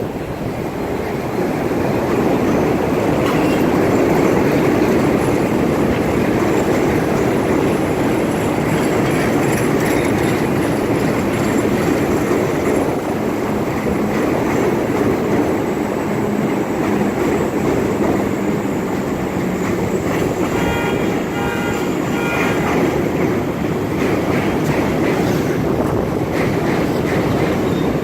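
A train rolling past on the rails, a loud steady rumble of wheels on track that builds over the first few seconds and holds. About twenty seconds in, a brief high-pitched pulsing tone sounds over it.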